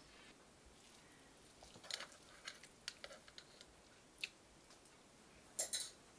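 Faint scattered clicks and taps of eating and of handling a metal cooking pot, with a short burst of louder clicking near the end.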